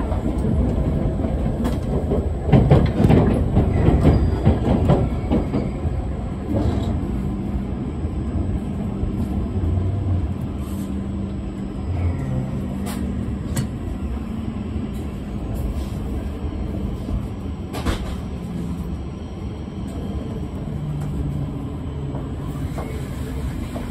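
Tohoku Shinkansen running noise heard from inside the car as the train slows into a station: a steady low rumble that eases off after the first few seconds, with a few sharp clicks from the track and a faint humming tone that drops lower near the end.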